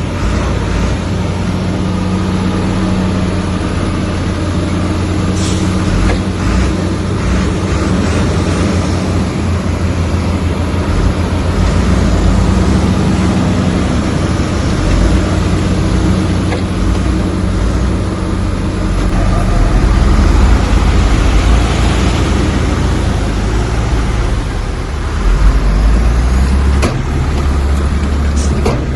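Heavy diesel earthmoving machinery running steadily, the engine swelling louder around twenty seconds in, with a few sharp clanks.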